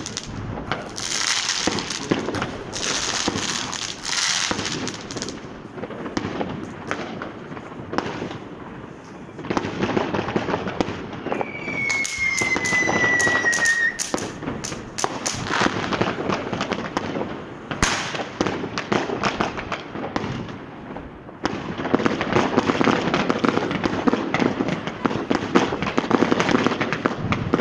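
Fireworks going off in the street: a continuous run of bangs and crackling. Near the middle comes a whistle lasting about two seconds that falls slightly in pitch, and near the end a dense stretch of rapid crackling.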